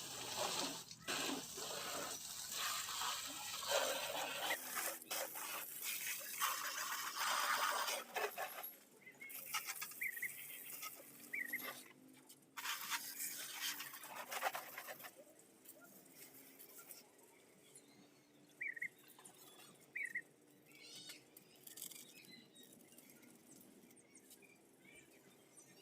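Irregular splashing and rubbing noises, typical of a motor scooter being wetted and scrubbed, for about the first fifteen seconds, then quieter, with a few short bird chirps now and then.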